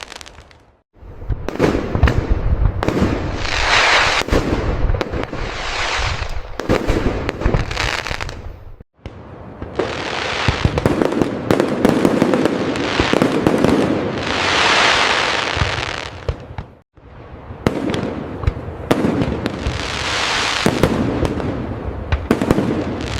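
Fireworks display: repeated sharp bangs with swelling crackle and hiss from aerial bursts. The sound cuts out abruptly three times, about a second in, near 9 s and near 17 s, each time resuming at once.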